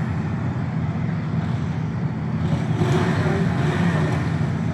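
Motorcycle engines running with a steady low drone, growing louder for a moment about three seconds in.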